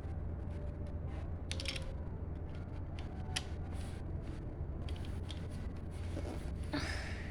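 Plastic Lego bricks being handled and pressed together: scattered small clicks and rattles, with a longer scrape near the end, over a steady low hum.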